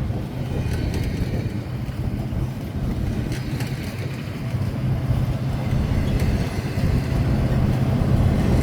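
Diesel-electric freight locomotive, a pusher unit at the rear of a container train, running past with a steady low engine drone and rumble that grows louder near the end.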